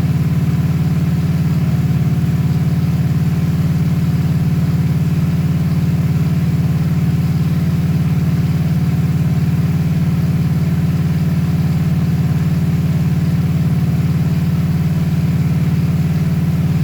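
Honda Shadow 750 V-twin engine idling steadily.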